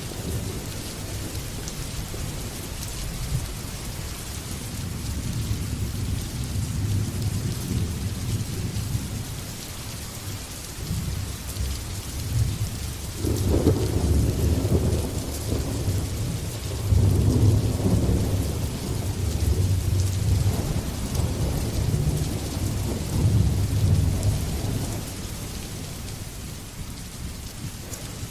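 Thunderstorm: steady rain hiss under rolling thunder, the rumble building from about halfway through with two strongest peaks, then easing off near the end.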